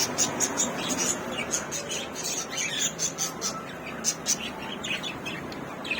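Several caged birds chirping and squawking: a quick stream of short, high chirps, many to the second, over a steady background murmur.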